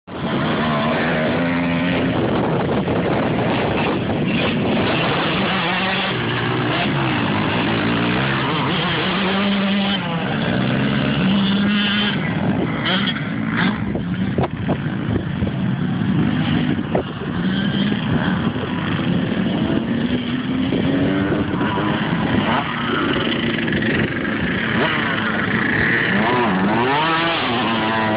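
Dirt bike engine running and revving, its pitch rising and falling again and again as the throttle is worked.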